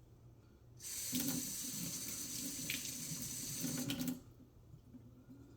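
Tap water running into a sink for about three seconds, starting about a second in and cutting off, as a vintage doll's leg is rinsed under it.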